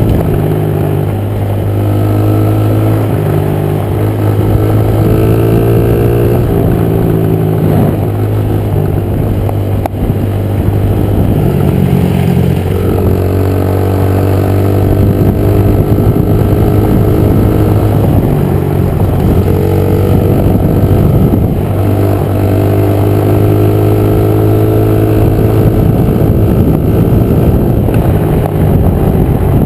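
Honda 50 pit bike's small single-cylinder four-stroke engine running hard under a rider, its pitch rising again and again as it revs up and drops back between gears.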